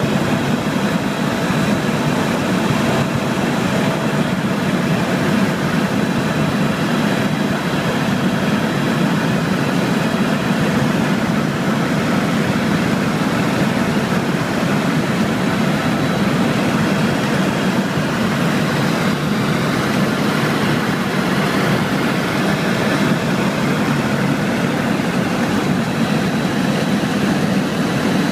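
Helicopter in flight: a steady, unbroken drone of engine and rotor.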